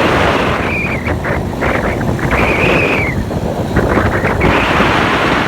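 Wind buffeting the microphone of a motorcycle rider at speed, with road and engine noise underneath; a brief high tone near the middle.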